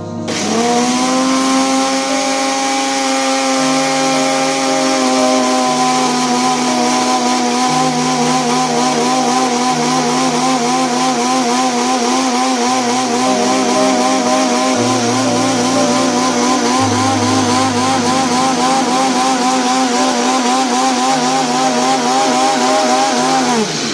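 Countertop blender beating raw eggs until pale and frothy: the motor spins up at the start, holds a steady whine with a slight wavering, and winds down near the end. Soft background music plays underneath.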